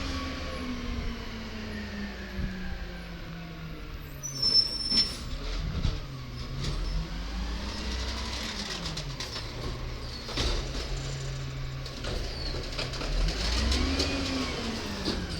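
Garbage truck's diesel engine running, its pitch falling, holding, then rising and falling again near the end, with a few sharp metallic knocks and a brief high squeal about four and a half seconds in.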